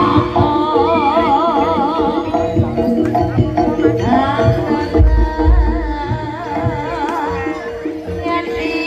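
Live jaranan music: gamelan-style ensemble with steady sustained tones, hand-drum rhythm and a wavering melody line with strong vibrato, joined about halfway through by heavy low drum strokes.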